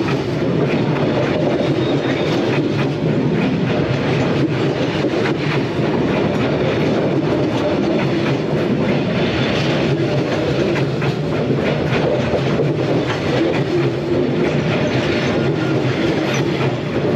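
Train running past close by: a steady rumble of wheels on rail, with clickety-clack from the rail joints.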